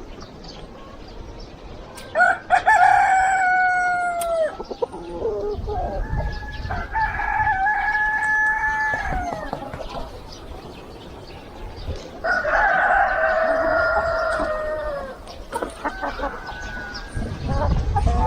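Roosters crowing: three long crows, each about two to three seconds and dropping in pitch at the end, a few seconds apart.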